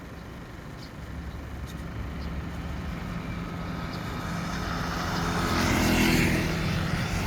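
A motor vehicle's engine draws closer and passes, growing steadily louder to a peak about six seconds in.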